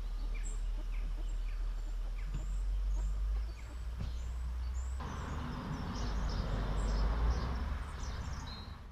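Small birds chirping and calling in short high notes, over a steady low rumble; about five seconds in, a louder hiss comes in abruptly.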